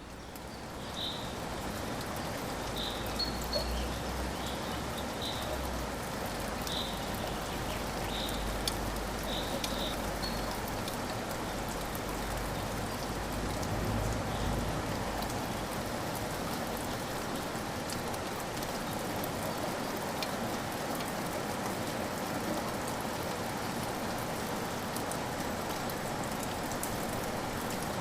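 Steady rain falling, with short high bird chirps repeating over roughly the first ten seconds, then rain alone.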